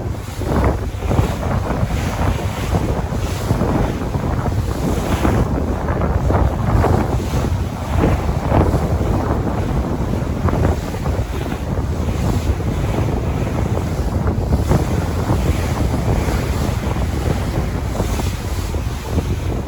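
Sea waves washing and splashing continuously, with wind buffeting the microphone as a steady low rumble.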